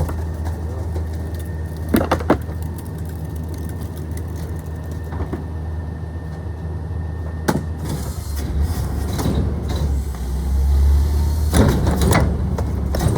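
Garbage truck engine running steadily, with a few sharp clanks and knocks and a louder spell of clattering near the end.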